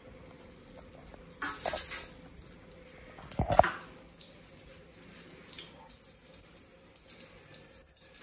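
Egg-coated potato and minced-meat cutlets sizzling in shallow oil in a frying pan, a faint steady hiss. About a second and a half in there is a brief louder hiss, and about three and a half seconds in a sharp knock.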